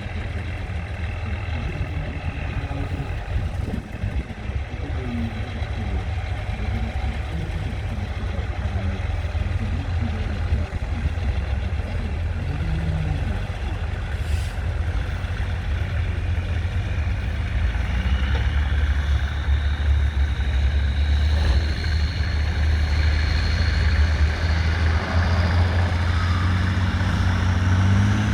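Competition trial truck's diesel engine running under load, louder in the second half, with a whine that rises steadily in pitch over the last ten seconds.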